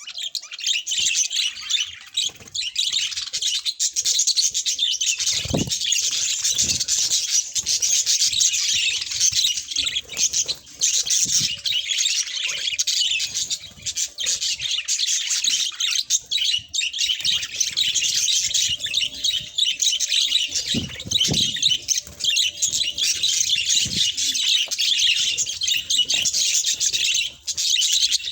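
Budgerigars chirping and chattering without a break, several birds at once, with a few low thumps.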